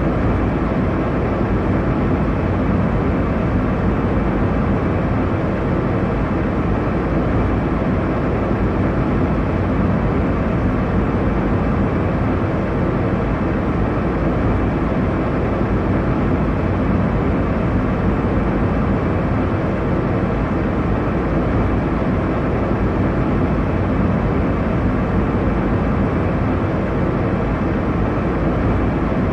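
Steady airliner cabin noise: a constant low rushing drone of engines and airflow, even throughout, heaviest in the low and middle range.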